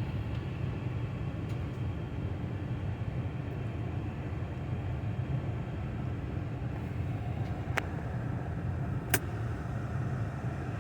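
Ford Expedition 3.5 V6 engine idling steadily, an engine that is misfiring on cylinders 1 and 2. Two sharp clicks near the end.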